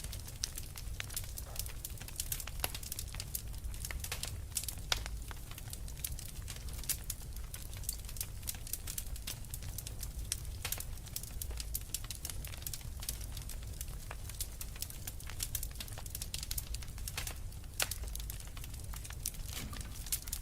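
Wood fire burning in a fireplace: a steady low rumble of the flames with dense, irregular crackles and pops from the burning logs.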